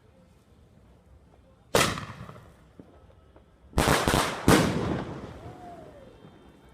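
Fireworks going off: one sharp bang about two seconds in, then a quick cluster of four or so bangs around four seconds in, each ringing out slowly afterwards.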